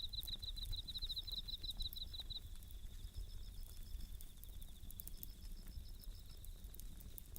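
Bell crickets (suzumushi) singing a rapid pulsed high trill, strong for the first two seconds or so and then fainter, over the scattered crackles and pops of a wood campfire and a low steady rumble.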